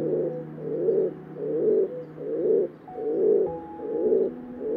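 A bird cooing in a steady run of low calls, about two a second.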